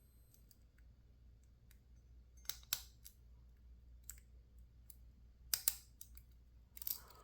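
Lock pick clicking against the pins inside a PacLock 410 Pro padlock as they are probed and set: scattered small metallic clicks, a few louder ones in quick pairs.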